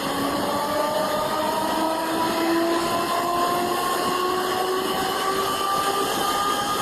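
A machine running with a steady whine made of several tones that slowly rise in pitch throughout, over a noisy hum.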